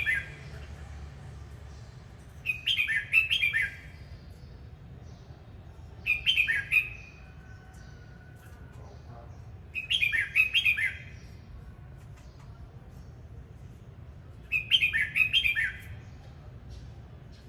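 Red-whiskered bulbul singing: four short, bright, warbling phrases, each about a second long, spaced about four seconds apart.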